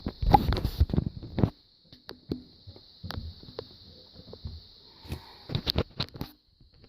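Irregular knocks, taps and rustling handling noises, clustered in the first second and a half and again near the end, over a steady high hiss.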